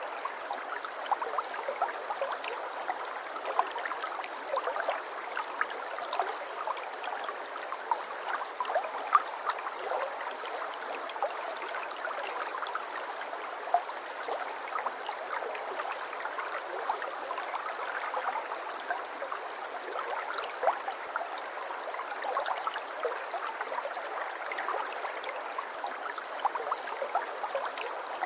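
Babbling brook: shallow water running steadily over stones, with many small bright splashes and gurgles throughout.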